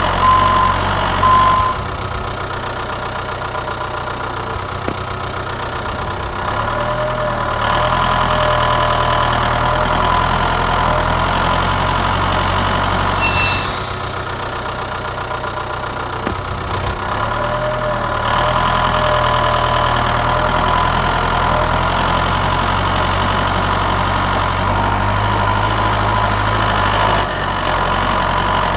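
Diesel engine idling steadily, shifting in level and pitch several times. A vehicle's reversing beeper sounds at the start and stops about a second and a half in.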